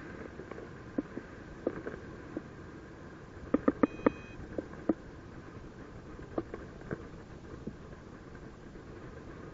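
Steady rush of airflow on the microphone in paragliding flight, with scattered sharp clicks and a quick run of louder clicks about three and a half seconds in, followed by a single short electronic beep.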